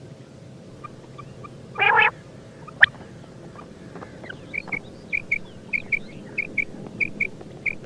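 Quail calling: a short harsh rasping burst about two seconds in, then from about four and a half seconds a run of short high chirps, about two a second, often in pairs.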